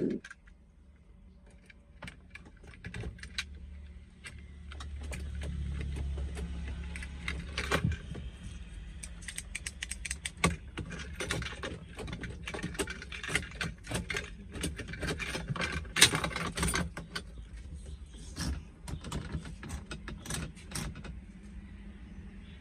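Metal tools and parts clinking and knocking in quick irregular runs of sharp clicks, over a low hum that is louder for a few seconds about five seconds in.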